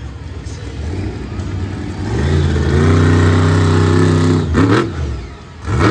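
Monster truck's supercharged V8 engine revving up hard, holding high revs for about two seconds, then letting off, with two short sharp blasts near the end.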